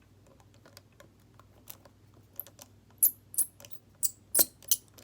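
Small clicks and light scrapes of a phone's parts and a tool being handled during a teardown. Faint, scattered ticks at first, then a run of sharper clicks from about three seconds in.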